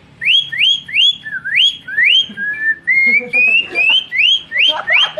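A boy imitating a cucak hijau (green leafbird) song with his mouth: a fast run of rising whistled chirps, about three a second, with a few longer sliding notes in the middle of the phrase.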